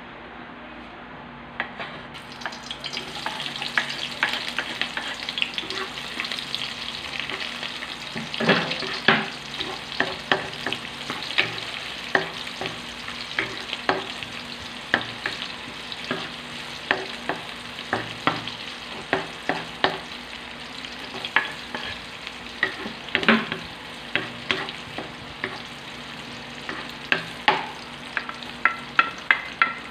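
Sliced red onions and ginger frying in hot oil in a metal wok, with a wooden spatula scraping and knocking against the pan as it stirs. The sizzle sets in about two seconds in, and near the end the spatula knocks come quickly, several a second.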